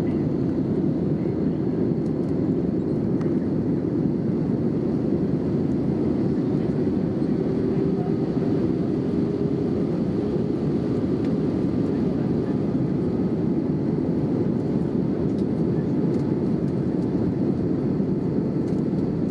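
Steady in-flight cabin noise of an Airbus A320neo on approach: an even low rush of engines and airflow, with a faint tone that rises slightly about halfway through.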